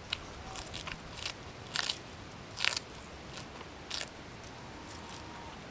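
Crisp crunching bites and chewing of raw leafy green stalks, a string of about six sharp separate crunches with gaps of chewing between them.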